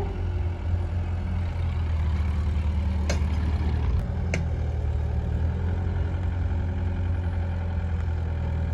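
Diesel engine running steadily at a low, even speed, with two short sharp knocks about three and four and a half seconds in.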